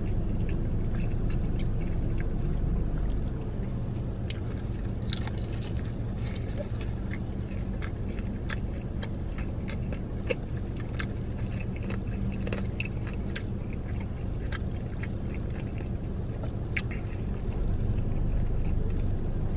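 Close-up chewing of a crispy fried chicken thigh, with many short crunches and wet mouth clicks, over a steady low rumble inside a car cabin.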